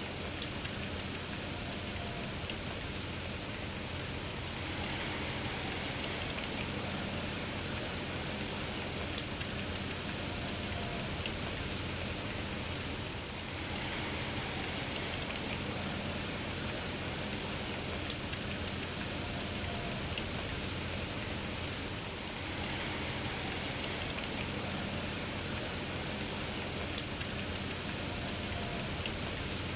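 Steady rain falling, with a sharp tap about every nine seconds standing out over the even patter.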